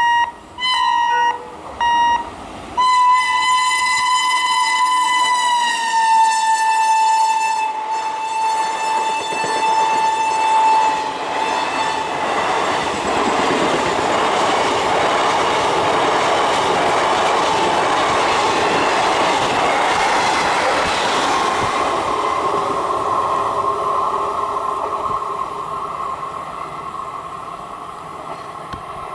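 WAP-5 electric locomotive's horn giving a few short toots, then one long blast whose pitch drops as the engine passes, followed by the rush of the express coaches running by over the rails, with wheels clattering. The rushing noise fades near the end, leaving a steady tone.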